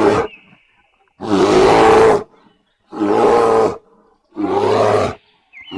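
A bear roaring over and over: loud, low roars about a second long each, with short pauses between them.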